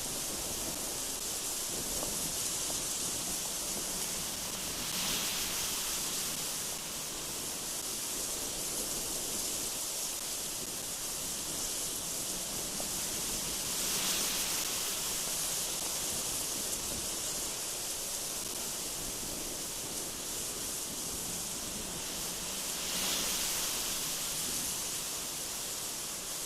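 Strong, cold mountain wind blowing in a steady high hiss, swelling in gusts three times, about nine seconds apart.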